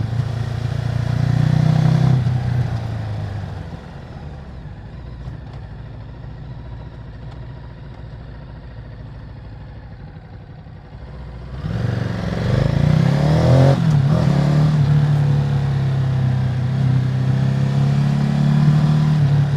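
Ducati Multistrada 950's V-twin engine through its stock exhaust. It is loud at first, falls away about three seconds in to a low steady sound, then comes back loudly about twelve seconds in with the revs swinging up and down before settling to a steady loud run.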